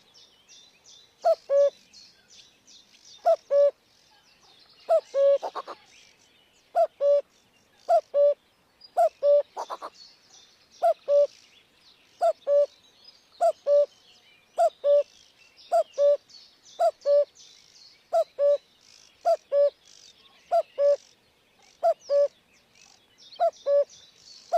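A bird calling over and over in short two-note phrases, the first note a little higher than the second, about once a second, with a continuous high twittering of other small birds behind it.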